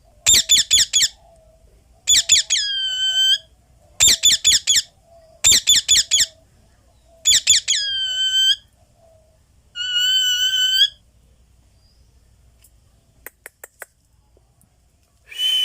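Indian ringneck parakeet calling. Short bursts of three or four rapid shrill notes alternate with longer whistled squawks that drop in pitch and then hold, roughly every one to two seconds. After a pause come four faint quick ticks, and a harsher call near the end.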